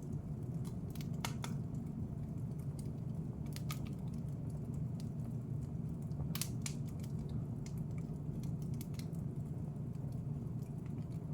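Wood fire in a fireplace crackling, with scattered sharp pops over a steady low rumble; the loudest pop comes about six seconds in.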